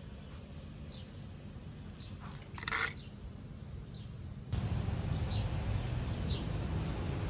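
Birds chirping now and then, with one louder call a little before the middle, over a steady low background rumble that turns louder about four and a half seconds in.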